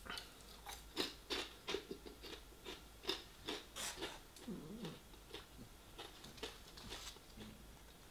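Close-miked chewing of a battered sweet and sour chicken ball: a run of short crunchy, wet mouth clicks, densest in the first few seconds and fainter later. A brief low hum comes from the throat about four and a half seconds in.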